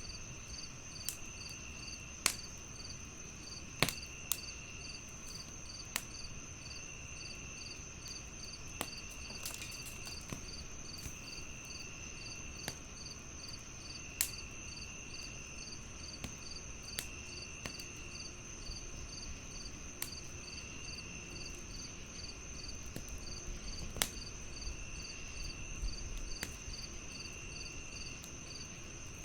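Crickets chirping: one steady high trill, one evenly pulsed chirp about twice a second, and a lower trill coming in bursts about a second long. Scattered sharp pops and snaps from a crackling wood fire sound throughout, with a few louder ones.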